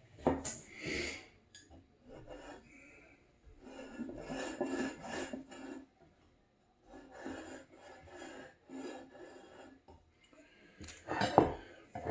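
Hand plane taking trial strokes across wood: several rasping passes of about a second or two each, then a short, sharper pass near the end, as the freshly sharpened blade is checked for being centred.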